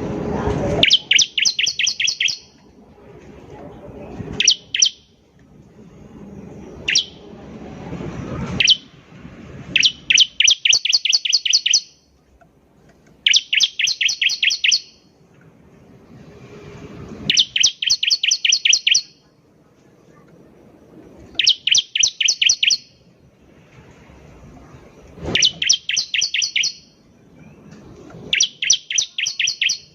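Bar-winged prinia (ciblek) singing: bursts of rapidly repeated high notes, each phrase about a second and a half long, coming roughly every four seconds, with softer sounds in between.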